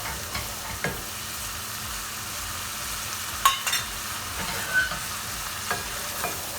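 Curry sauce with ginger-garlic paste and masala spices sizzling in a hot pan while being stirred, with scattered clicks and scrapes of the stirring utensil against the pan, the sharpest a little over three seconds in.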